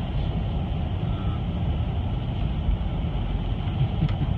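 Steady rumble of a vehicle driving, heard from inside the cabin, with a faint click near the end.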